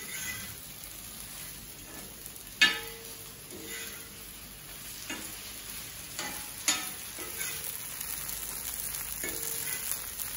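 Idli pieces frying in oil on a hot tawa, a steady sizzle, while a perforated metal spatula scrapes and taps against the griddle as they are turned. There are several sharp taps, the loudest about two and a half seconds in.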